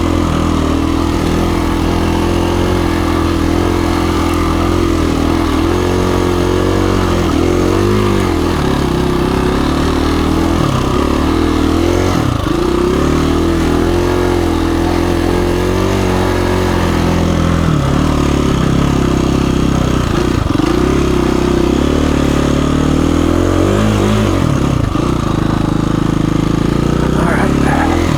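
KTM 350 EXC-F single-cylinder four-stroke dirt bike engine running under way, its revs dipping and climbing again several times as the throttle is rolled off and back on.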